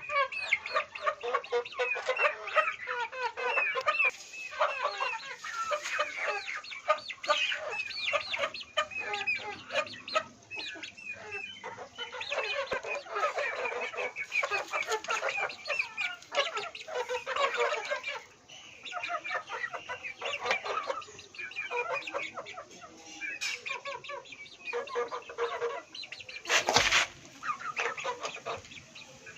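A flock of country chickens clucking and chirping, with many short overlapping calls throughout. A brief loud noise stands out near the end.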